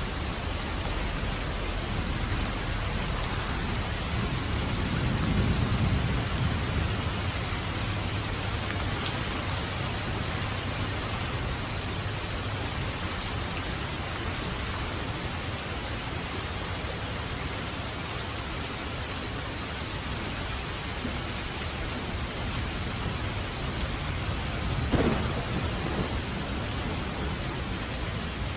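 Steady heavy rain on a roof, with a low roll of thunder swelling about five seconds in and a sharp thunderclap a few seconds before the end.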